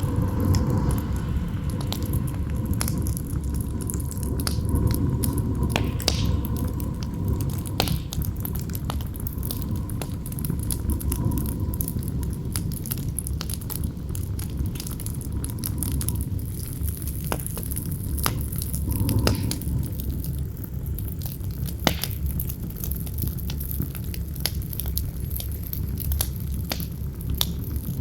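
Campfire crackling, with frequent sharp irregular pops and snaps over a steady low rumble of wind. A faint howling tone of the wind rises and fades a few times.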